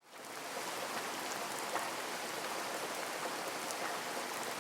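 Steady rain falling, an even hiss with scattered small drop ticks, fading in over the first half second.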